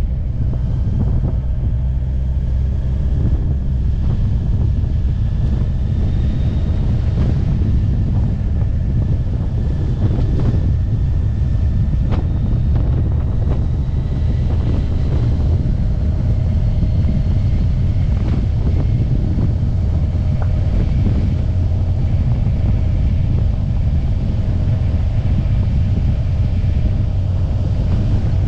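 Kawasaki Ninja 1000SX motorcycle being ridden at steady speed: constant wind buffeting on the microphone over its inline-four engine running, with a faint whine that slowly rises and falls in pitch.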